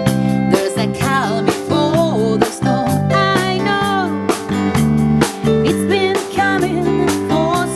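Small band playing a soul-pop song: drum kit keeping a steady beat over electric bass and piano, with a woman's voice singing a bending, ornamented melody.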